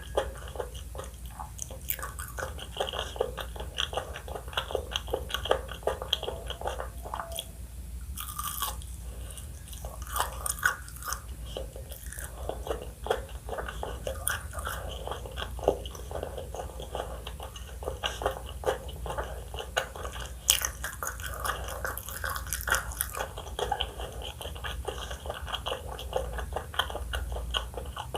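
Close-miked ASMR eating: a person bites and chews crunchy food, with a continuous stream of irregular crackling crunches and wet mouth sounds.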